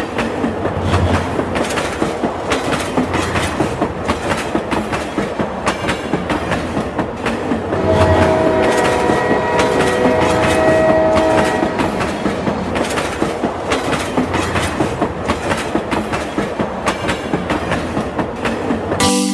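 Train running: a fast, dense clickety-clack of wheels on rails, with a horn chord sounding from about eight seconds in for some four seconds.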